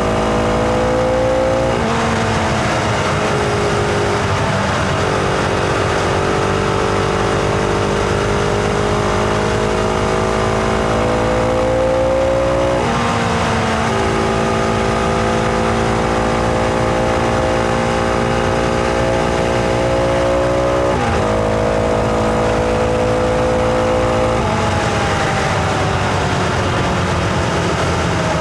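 Husqvarna Vitpilen 701's single-cylinder engine pulling under load while riding, its note climbing slowly and then changing pitch abruptly at about five gear changes, and easing down near the end as the bike slows.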